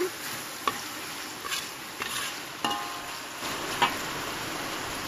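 Onions and dried chillies sizzling in hot oil in a metal wok, with a steady hiss. A metal ladle stirs them and scrapes and knocks against the wok about five times.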